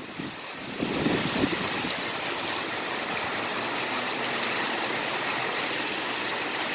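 Heavy rain pouring down, a steady hiss that swells about a second in and holds.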